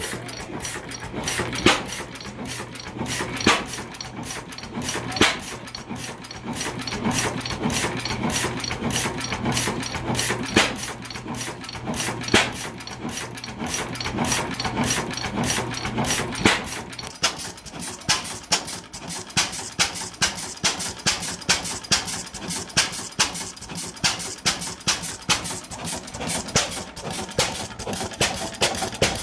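Ingeco Type AM 6 hp hit-and-miss engine running: a loud firing stroke every second or two, with a steady run of light clicks from the engine as it coasts between them. A low steady hum stops about two-thirds of the way through.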